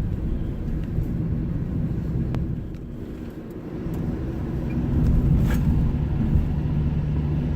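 Steady low vehicle rumble with a faint hum underneath, slightly louder in the second half.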